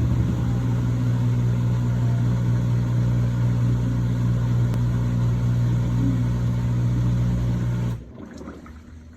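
Brastemp Vantage washing machine in its final spin, a loud steady hum with a strong low tone from the spinning drum and motor, loaded with microfibre blankets. About eight seconds in the sound drops sharply to a much quieter level with a few light clicks.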